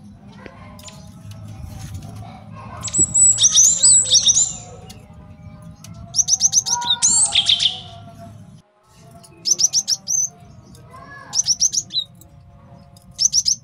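Male cinereous tit (gelatik batu) singing: about five bursts of rapid, high chattering notes with short pauses between them, over a low steady background hum.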